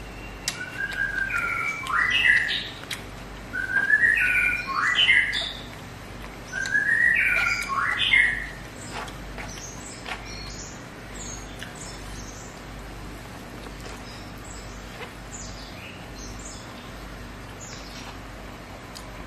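A songbird singing three loud phrases of quick whistled notes that sweep up and down, one every two to three seconds, followed by fainter, higher chirps for the rest of the time.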